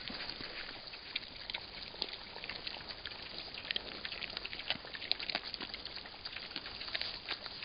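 Wild boar foraging in leaf litter: irregular crackling and rustling of dry leaves and twigs over a steady hiss, picked up by a trail camera's microphone.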